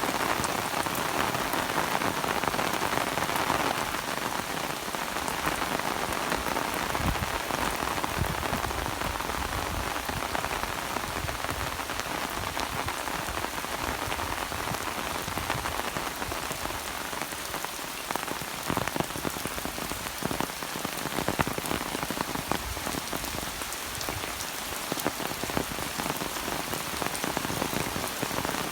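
Steady rain falling, with many separate drops ticking close by, a little heavier in the first few seconds.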